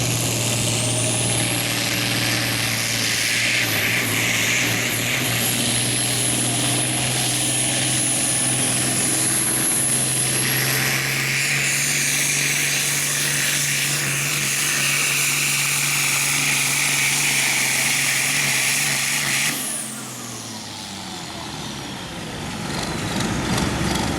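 Turbocharged diesel farm tractor pulling a sled at full throttle, engine note held steady under a high turbo whistle that climbs in the first second or two. About nineteen seconds in the throttle is shut off and the whistle winds down as the run ends.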